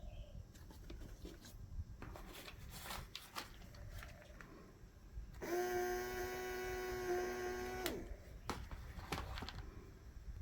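Light clicks and knocks of handling, then a small electric motor whirs steadily for about two and a half seconds, a bit past halfway in, and cuts off suddenly.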